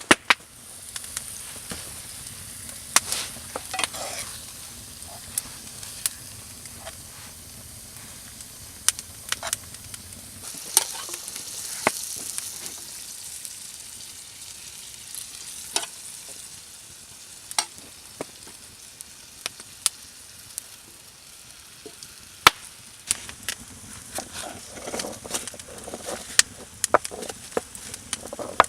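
Food sizzling in a pan over a campfire: a steady frying hiss with frequent sharp crackles and pops.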